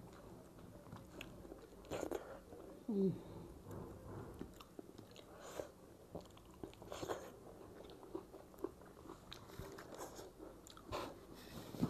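A person chewing and smacking mouthfuls of food eaten by hand, close to the microphone, with wet clicks of lips and tongue. A short falling hum comes about three seconds in.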